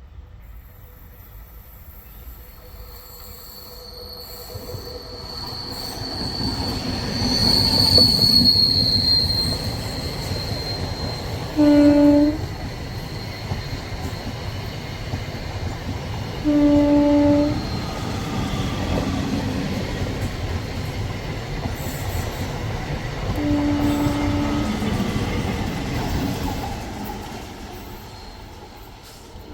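A train passing on a sharp curve. Its wheels squeal steadily against the rails, loudest early on. The rumble of the train builds, then eases near the end, and the horn sounds three short blasts.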